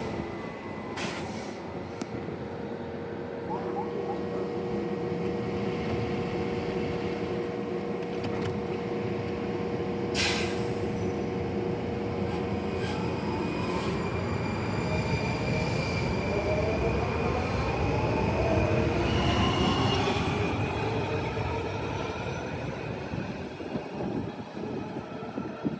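Washington Metrorail subway train on the track, a sharp clank about ten seconds in, then the electric traction motors' whine rising in pitch as the train speeds up, with wheels squealing on the rails.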